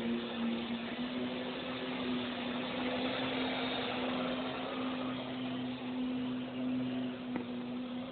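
Parrot AR.Drone quadcopter's four rotors running in flight, a steady buzzing hum that holds one pitch.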